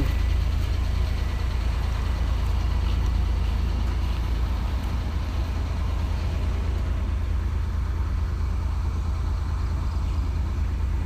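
A vehicle engine running steadily with a low rumble, without revving.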